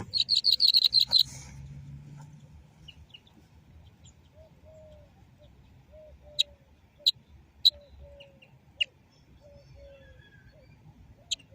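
European goldfinch singing: a loud, rapid run of about eight high notes in the first second, followed by scattered sharp, high chirps. Short low calls repeat steadily in the background.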